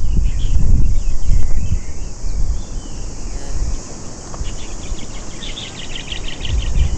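Wind buffeting the microphone in gusts with a low rumble, while small birds chirp and trill over it, busiest about two-thirds of the way in.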